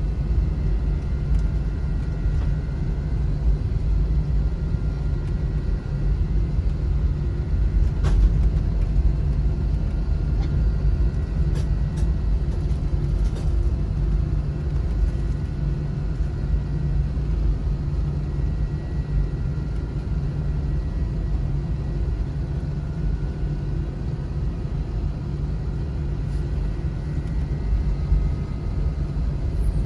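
Airliner jet engines heard inside the passenger cabin, running steadily before takeoff: a deep, even rumble with a held hum and faint whine over it. There is one faint click about eight seconds in.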